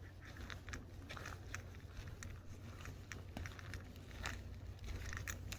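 Footsteps on the ground: an irregular run of sharp clicks and crackles, several a second, over a low steady rumble.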